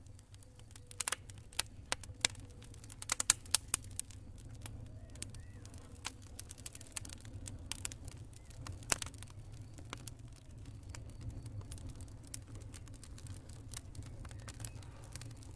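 Campfire crackling: irregular sharp snaps and pops from burning wood, over a steady low rumble. A flurry of louder pops comes between about one and four seconds in, and a single loud pop comes a little before the middle.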